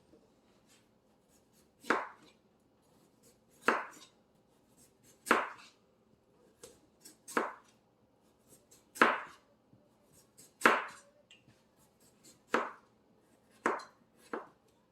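Knife chopping a canary melon, about nine sharp strokes spaced a second or two apart. The melon is less ripe, with a thick rind.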